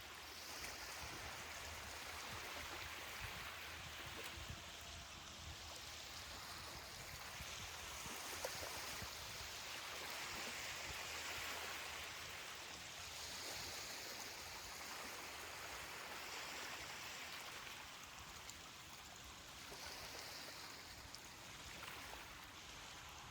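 Soft ocean surf washing on a beach: a steady hiss of breaking and receding water that swells and eases every few seconds.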